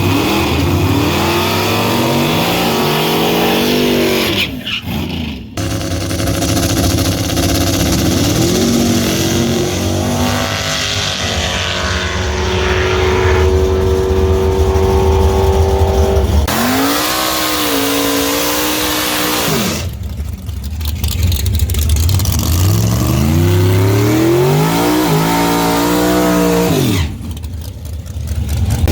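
Racing trucks' engines at full throttle, the pitch climbing steeply and dropping back again and again as they shift up through the gears. The sound breaks off abruptly a few times between clips.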